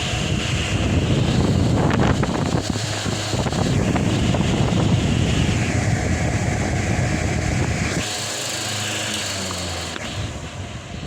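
Delta Gold electric fan running, a steady motor and blade noise with its airflow rumbling on the microphone. About eight seconds in the low rumble drops away, and near the end the sound gets quieter.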